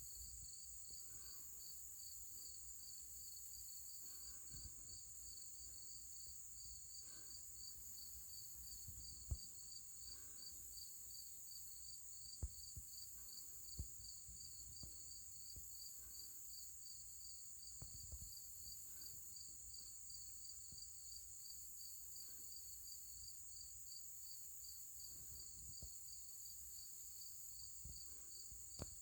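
Faint outdoor insect chorus: a steady high cricket trill pulsing about twice a second, under a higher steady insect hiss that swells and fades about once a second. A few brief soft knocks stand out over it.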